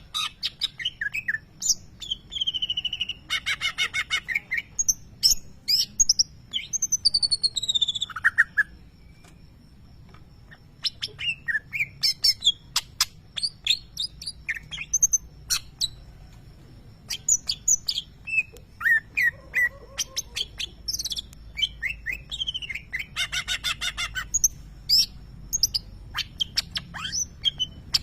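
Cucak ijo (greater green leafbird) singing a fast, varied song of sharp chirps, rapid chattering runs and whistled slurs, broken by a couple of short pauses. This is its 'tembakan', the uploader's word for the bird's shrill burst phrases, which he says imitate a lovebird.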